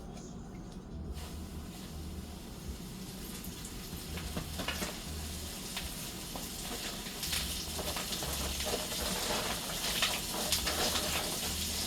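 Food shallow-frying in hot grease in a skillet: a steady sizzle with frequent pops and spatters, thickening after about a second. The grease is very hot.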